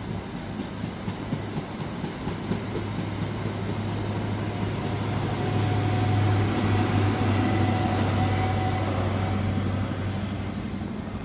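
A train running past, its rumble building to a peak about six seconds in and then easing slightly.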